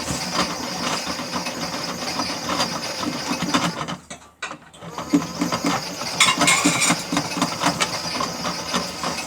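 Toy Miele W1 washing machine running its cycle: small motor and plastic gears turning the drum with a steady rattle. It stops briefly about four seconds in, then starts again.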